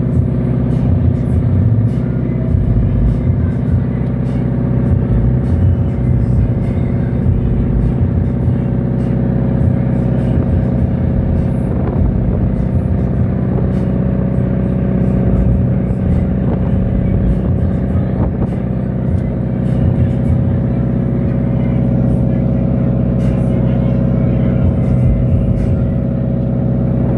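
Cruise boat's engine running with a steady, unchanging drone.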